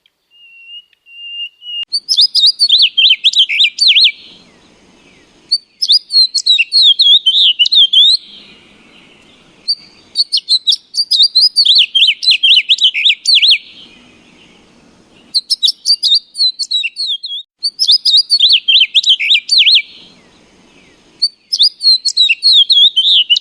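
A bird singing in repeated bursts of rapid, high, warbling chirps. Each burst lasts about two seconds, and there are six of them with short pauses in between.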